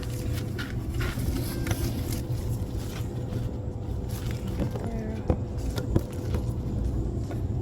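Pepper plants rustling as ripe fruit is picked by hand, with two sharp snaps about five and six seconds in, over a steady low rumble.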